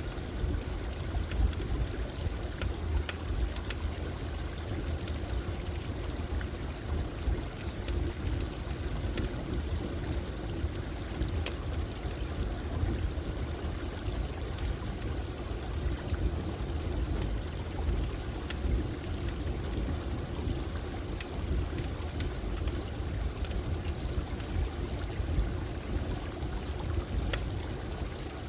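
Running water flowing steadily, with sparse sharp pops and crackles of a campfire scattered over it at irregular intervals.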